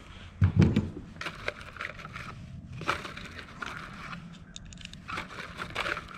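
Handling of a pistol and its magazine: a dull thud about half a second in, then a run of small clicks and clacks.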